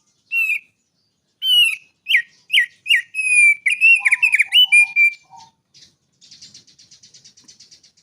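Prenjak gunung, a prinia, singing. A loud run of quick whistled notes that swoop up and down, with a few lower notes near the middle, then a softer, fast, buzzy trill near the end.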